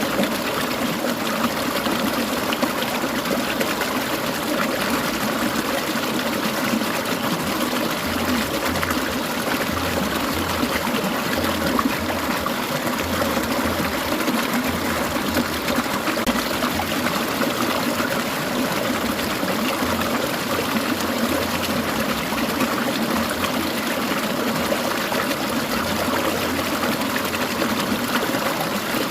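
Clear mountain water trickling and babbling steadily over stones.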